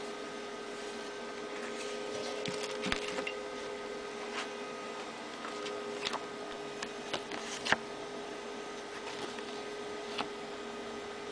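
Scattered light clicks and taps, about half a dozen at irregular intervals with the sharpest about two-thirds of the way in, typical of parts and tools being handled on a workbench. Under them runs a steady electrical hum.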